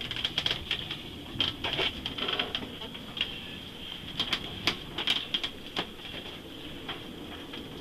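Sailing yacht moored in strong wind and waves, its hull and gear giving irregular knocks and creaks, several a second at times, over a steady rush of wind and water.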